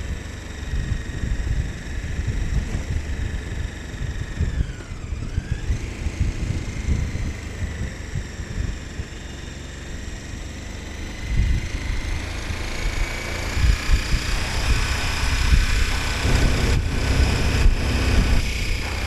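KTM 1290 Super Adventure S's V-twin engine under way, its revs dropping about five seconds in, then rising steadily as the bike accelerates. Wind buffets the microphone with a low rumble throughout.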